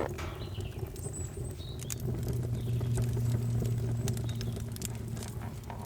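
Wood fire crackling with scattered sharp pops. A low steady hum comes in about two seconds in and fades out about five seconds in.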